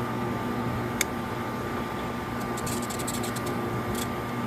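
Walk-in freezer condensing unit running with a steady electrical hum. A sharp click comes about a second in, then a quick run of light clicks and ticks near the end.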